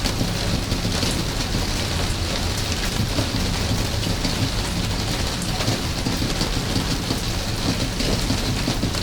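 Steady rain falling without a break, over a constant low rumble.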